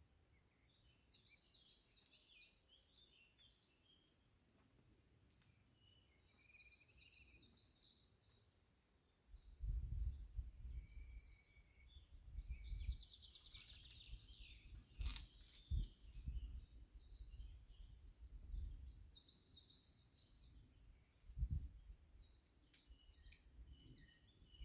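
A songbird singing repeated short, rapid trilled phrases, with thinner calls between them. About ten seconds in a low rumble comes in and keeps going, with a single sharp click near the middle.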